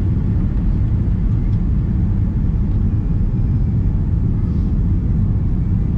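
Steady low rumble of an airliner cabin, here a Boeing 787-8: engine and airflow noise holding even throughout.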